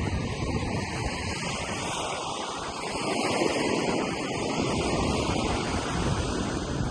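Ocean surf washing onto a beach, swelling a little about three seconds in, with wind rumbling on the microphone.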